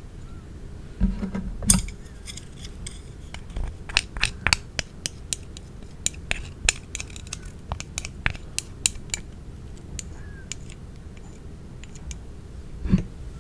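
Utensils clinking and tapping against dishes in a quick run of sharp clicks, with a dull thump near the start and another near the end.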